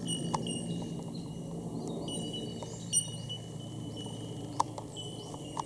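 Rainforest ambience: scattered short bird chirps and calls over a steady high-pitched insect drone and a faint low hum.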